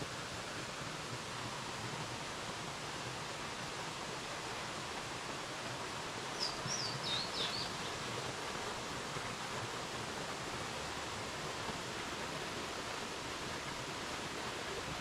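Steady rushing of Crabtree Falls' cascading water. About six seconds in, a bird gives a quick run of four or five high chirps.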